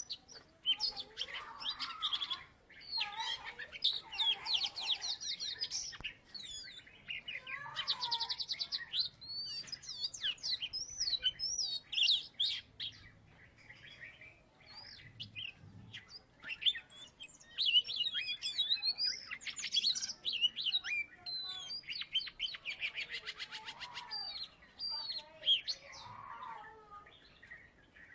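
Oriental magpie-robin (kacer) in full song: a long, varied stream of loud whistles, quick up-and-down glides and rapid buzzy trills, broken only by short pauses.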